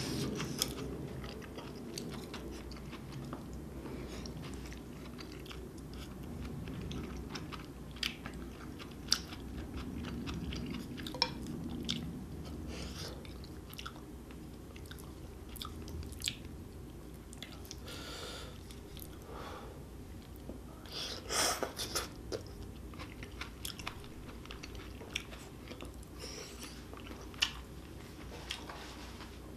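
Close-miked chewing of spicy stir-fried octopus, with wet mouth sounds and many short sharp clicks and smacks. A louder burst comes about two-thirds of the way through.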